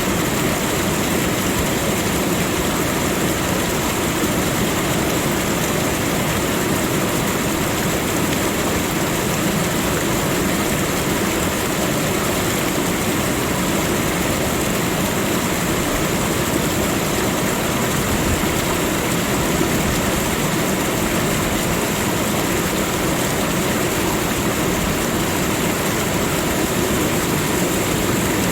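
Steady, unbroken rushing noise of a nature soundscape, with an even high hiss on top.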